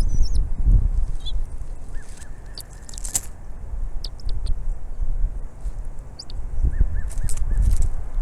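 Outdoor bird calls: short chirping notes in two runs of three or four, about 2 and 7 seconds in, with thin high calls between them, over a low wind rumble on the microphone.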